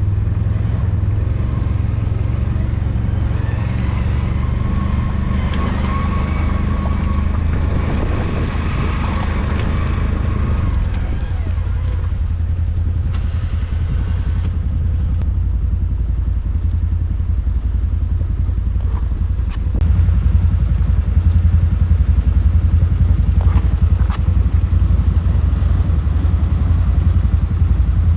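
ATV engine running steadily while riding, a low drone that gets louder about twenty seconds in.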